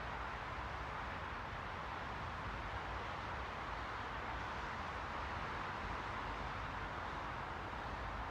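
Steady, unchanging hiss of white noise, fuller in the middle and softer in the highs.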